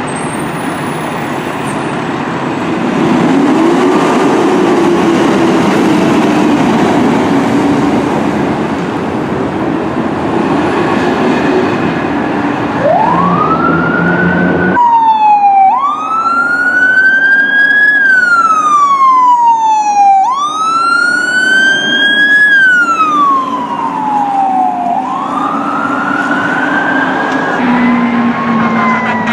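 Fire truck responding: a loud engine and road rumble, then the siren wailing, rising quickly and falling slowly about every four to five seconds.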